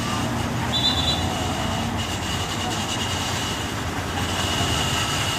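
Steady road noise from heavy trucks passing on a busy road, with a thin high whine held through most of it and a brief higher double tone about a second in.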